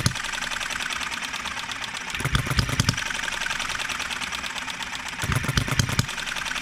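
Enjomor 6cc hit-and-miss model engine running, with a fast, even ticking throughout and two short heavier firing spells, about two seconds in and again near five seconds. The governor lets it fire a run of strokes on each hit rather than the single or double stroke wanted, with the cam timing still being tuned.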